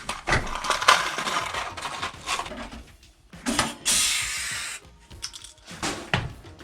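Hand pop-rivet gun being worked on sheet metal: a run of sharp clicks and metallic snaps as the rivet is squeezed and set, with a short burst of hiss about four seconds in.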